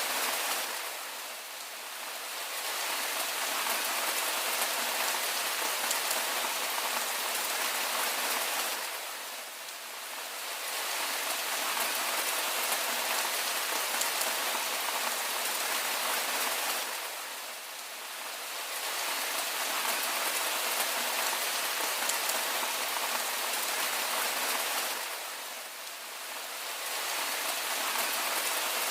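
Steady rain falling, a dense, even hiss of drops. The level dips briefly and swells back about every eight seconds.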